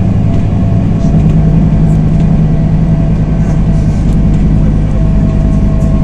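Scania diesel engine of an intercity bus heard from on board, running steadily under way. Its note changes about a second in, and a faint steady whine runs beneath it.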